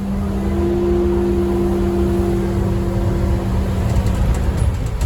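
Scania N230UD bus engine and drivetrain heard from on board, a steady low rumble with a held whining note under way. The whine dies away near the end.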